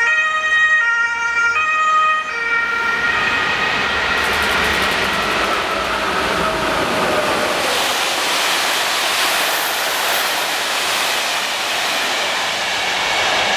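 A two-tone siren alternates between two pitches about twice a second and stops about two seconds in. A Czech class 371 electric locomotive and its passenger coaches then run through the station, a rising rushing rumble of wheels on rail that is loudest as the train passes close.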